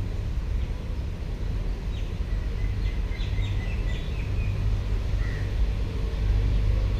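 Birds chirping, with a run of quick chirps about three seconds in, over a steady low rumble.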